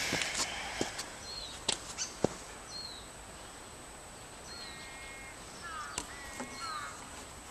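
Birds calling in the background: short high chirps repeated every second or two, and two longer patterned calls in the second half. A few sharp clicks or taps come in the first half.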